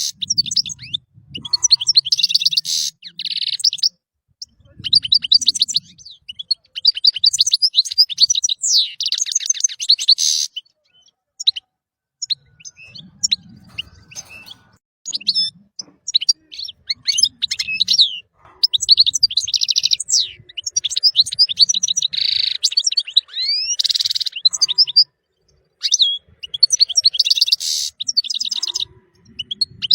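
European goldfinch singing: fast, liquid twittering phrases of high chirps, trills and buzzy notes, broken by brief pauses.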